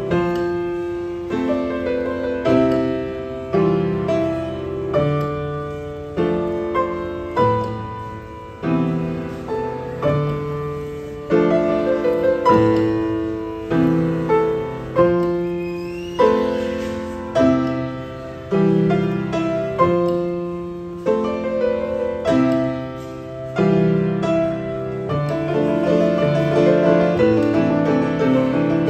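A piano played slowly in chords, each struck about once a second and left to ring. The playing grows busier and fuller near the end.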